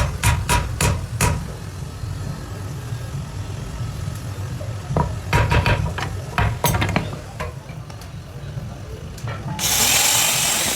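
Hammer blows on steel at an anvil while a sickle blade is forged, several quick ringing strikes about three a second, then a second cluster of strikes a few seconds later, over a low steady hum. Near the end a steady hiss sets in.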